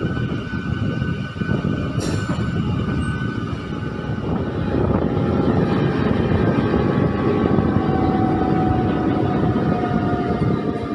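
MEMU electric train running on the track: a steady rumble of wheels on rails with faint steady whining tones above it, growing a little louder about five seconds in. A single sharp click sounds about two seconds in.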